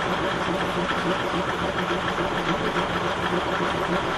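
KiHa 52 diesel railcar's engine idling steadily after a cold start, with an even, fine-grained rhythm.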